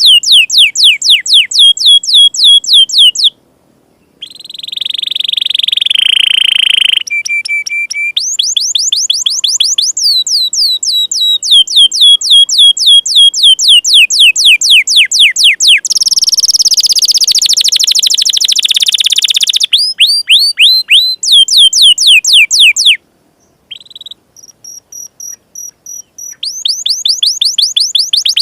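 Domestic canary singing a long song of fast repeated downward-sweeping notes in rolls, about four a second. The rolls are broken by a buzzy trill, a short held whistle and, in the middle, a harsher dense rattling roll.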